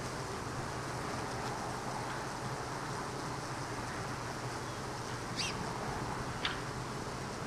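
Honeybees humming steadily around an opened hive. Two short chirps, likely a bird's, sound past the halfway mark.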